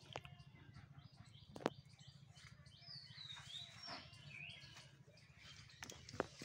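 Faint bird chirps: a few short calls gliding up and down in the middle, over a low steady hum, with two sharp clicks, one about a second and a half in and one near the end.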